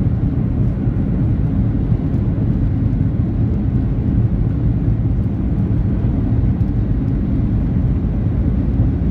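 Cabin noise of a Boeing 737-800 on its takeoff roll: the CFM56-7B turbofans at full takeoff thrust with the rumble of the runway under the wheels, a loud, steady, low-pitched noise.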